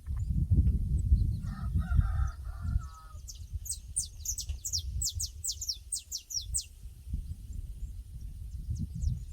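Pasture ambience: over a low rumbling background, a rooster crows briefly about a second and a half in, then a small bird sings a rapid run of high, falling chirps for about three seconds.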